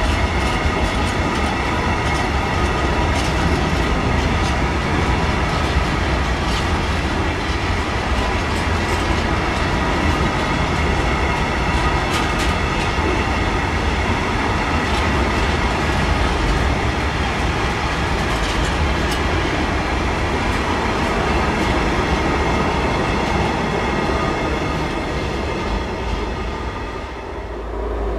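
Freight train of covered hopper wagons rolling past close by: a steady rumble of wheels on rail, with scattered clicks over rail joints and thin steady wheel squeal. The sound drops briefly near the end.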